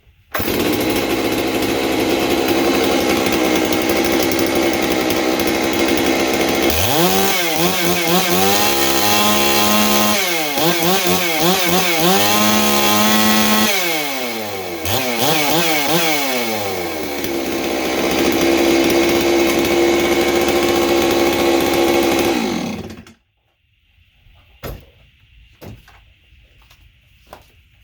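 Holzforma G660 (MS660 clone) two-stroke chainsaw on its stock muffler, starting and running. It is revved up and down several times in the middle, settles back to a steady run, and shuts off about 23 seconds in, followed by a few light knocks.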